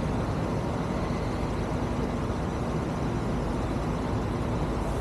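Steady motorcycle engine and road noise with a dense low rumble, unchanging throughout.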